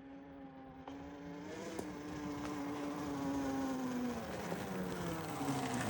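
A motor drones with a steady buzzing hum and grows louder, then its pitch drops a little about two-thirds of the way through.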